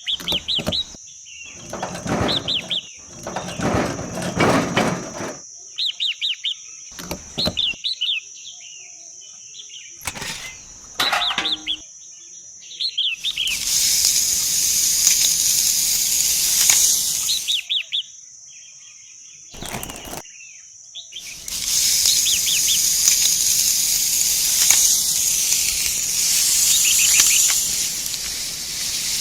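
Small birds chirping in quick groups of short falling notes over a steady high-pitched whine. Two long stretches of loud hiss come in, one in the middle and one over the last third.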